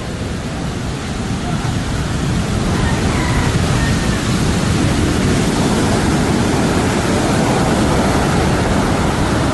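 Heavy surf and rushing seawater: a loud, steady wash of noise that swells about two seconds in and then holds.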